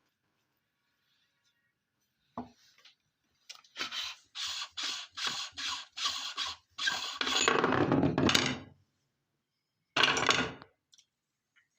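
Meat grinder grinding rose petals: a run of short scraping, rasping strokes about half a second apart, then a longer stretch of grinding, and one more short stroke near the end.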